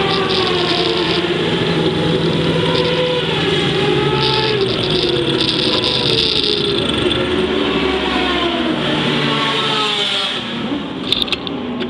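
A racing vehicle's engine running hard on a circuit, its pitch rising and falling as it revs up and down. It eases off near the end.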